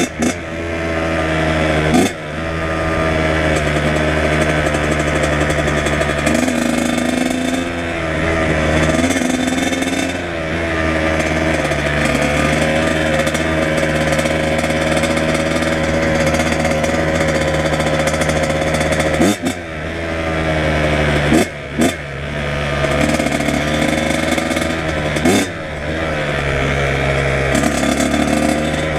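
Kawasaki KX100 two-stroke dirt bike engine running while riding. Its pitch rises and falls with the throttle, and it is broken by brief sharp drops several times.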